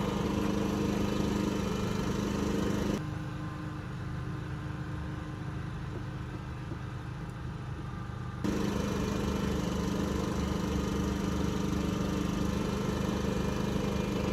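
A motor running steadily with a constant hum; the sound drops quieter abruptly about three seconds in and comes back just as abruptly about five seconds later.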